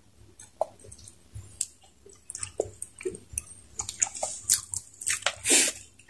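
Close-up wet chewing and lip smacks of people eating saucy chicken kaldereta with their hands: a string of short, wet clicks that gets busier in the second half.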